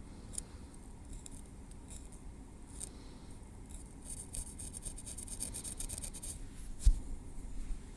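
Metal tweezers working through hair and against the scalp close to the microphone, with scattered light clicks and scrapes. About halfway in there is a quick run of rapid ticks for about two seconds, and a short low thump comes near the end.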